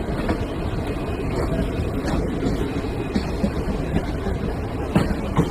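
Moving train running with a steady rumble and a few knocks from the track.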